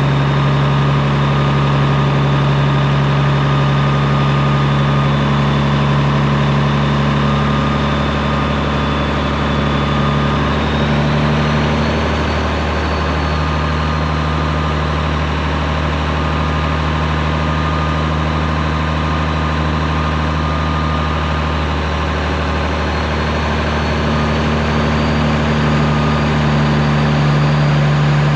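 Straight-piped Peterbilt 389 semi-truck diesel running steadily with a deep, even exhaust note. The note dips and shifts briefly about eleven seconds in, then settles again.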